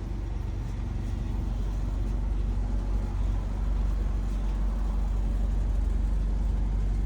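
Ford E350 Econoline van's engine idling steadily, getting a little louder from about two seconds in.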